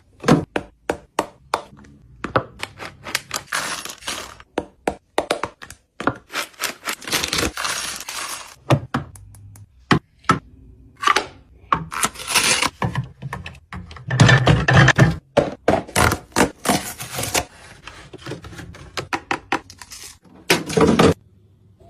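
Food and drink items being stocked into a small fridge: a quick string of knocks, clicks and taps as containers and bottles are set down and arranged, with several stretches of packaging rustling.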